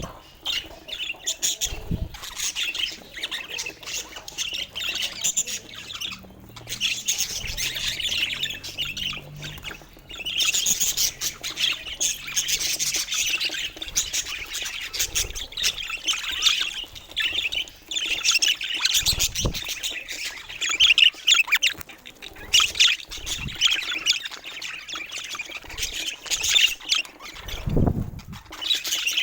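Budgerigars chattering and squawking in a continuous busy warble, with a few short low thumps.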